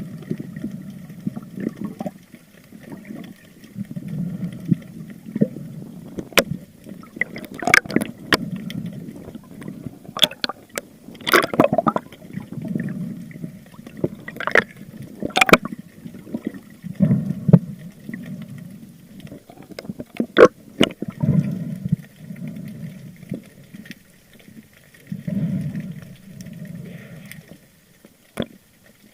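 Water gurgling and sloshing around a spearfisher's camera, with a low muffled surge about every four seconds and scattered sharp clicks.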